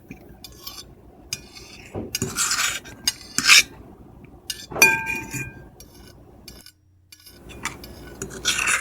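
Metal fork and knife scraping across a plate in several short, scratchy strokes. About five seconds in, a clink sets the plate ringing briefly.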